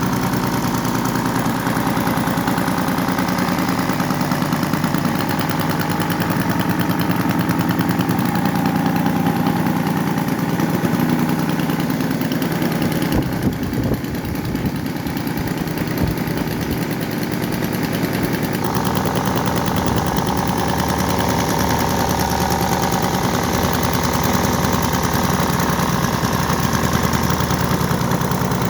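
RC model airplane's piston engine running steadily at a mid-range throttle, with a brief unsettled dip about halfway through, then settling on a slightly higher, steadier note.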